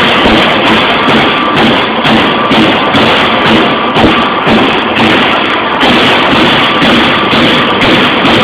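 Strippit 1000 SX CNC turret punch press punching 1.6 mm stainless steel sheet: loud repeated strokes, a few a second, over the machine's steady running noise.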